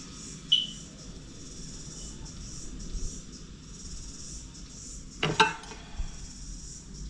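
Small clicks and taps of tools and cable being handled: a sharp click about half a second in, a quick cluster of clicks about five seconds in and a light knock just after. A steady insect chirring runs underneath.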